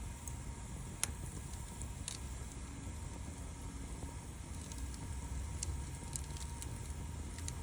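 Wood fire burning: a steady low rumble with scattered sharp crackles and pops, the loudest snap about a second in.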